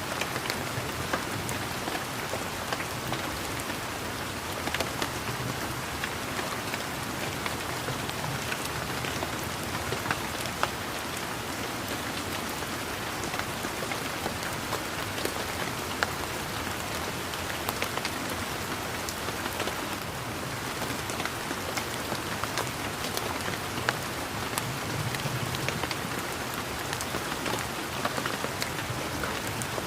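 Steady rain falling on leaves and other surfaces, an even patter with many separate drop ticks.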